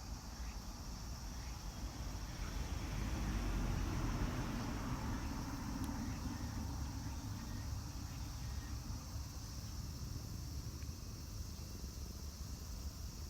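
Steady outdoor background noise with a low rumble and a thin, even high hiss, swelling louder for a few seconds near the middle before settling back.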